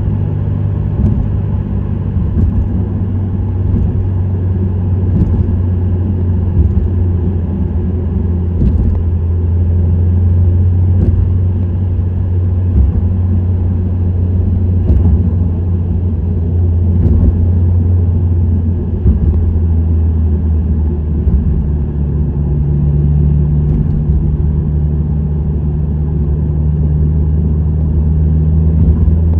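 Subaru WRX STI (VAB) turbocharged flat-four breathing through an STI Performance muffler, driving at a steady pace: a steady low exhaust drone over road rumble. A slightly higher droning tone joins it about two-thirds of the way through.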